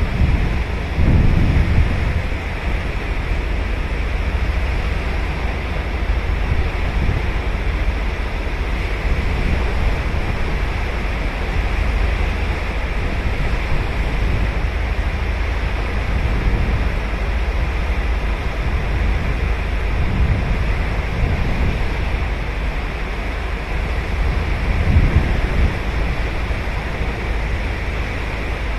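Sea surf breaking and washing on a sandy beach, a steady rushing hiss with low wind rumble on the microphone. It surges louder about a second in and again near the end.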